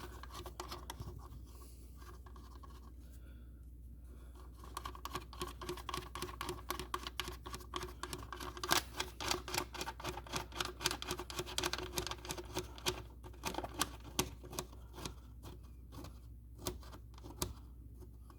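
Rapid, irregular scratchy clicks of a screw being turned in by hand on the engine air filter housing cover, starting about four seconds in and thinning out near the end.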